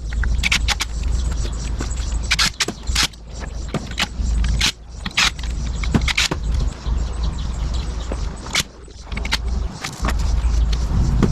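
Irregular metallic clicks, clinks and knocks of hand tools working on car engine parts during a teardown, over a steady low rumble.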